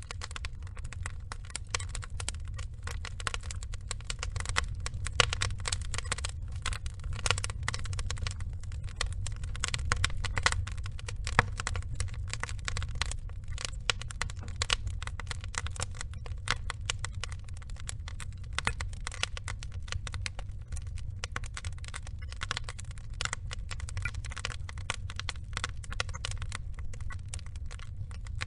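Burning log fire crackling, with dense irregular pops and snaps over a steady low rumble.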